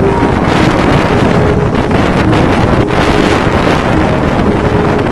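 Loud, steady wind buffeting the microphone, a dense low rumble with no pauses.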